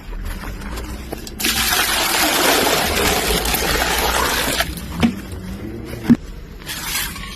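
A stream of water running for about three seconds, starting about a second and a half in and stopping abruptly. Two knocks follow.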